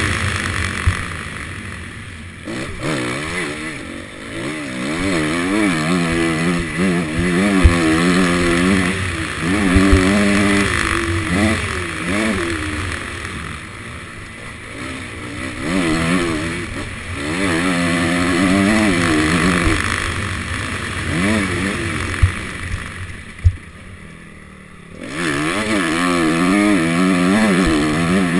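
Honda CRF250 four-stroke single-cylinder dirt bike engine, revving hard and easing off again and again as it is ridden around a motocross track. There are a few sharp knocks along the way, and near the end the engine drops away for about two seconds before picking up again.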